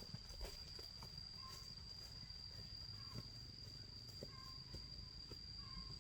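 Steady high-pitched insect drone, with short faint chirps about every second and a half and a few soft, scattered thuds.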